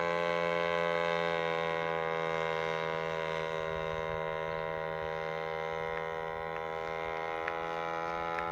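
A model airplane's 52cc two-stroke brushcutter engine running at a steady throttle, a constant droning note that holds its pitch and eases slightly in loudness after a couple of seconds.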